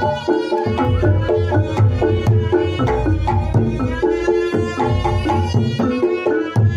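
Reog Ponorogo music: kendang drums beating a busy pattern under a reedy slompret melody, with a low pulse of gongs.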